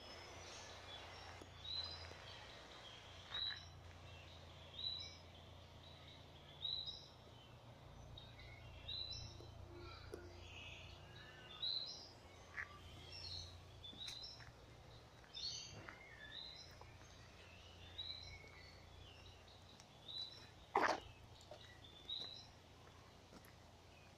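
Birds calling repeatedly, a short high chirp about every second and a half, over a steady low hum. One sharper, louder sound stands out about twenty-one seconds in.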